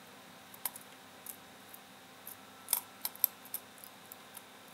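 Light metallic clicks and ticks as a circuit board bristling with long, unclipped LED leads is handled and turned over in the hand: one click about a second in, then a quick cluster of them a little past the middle.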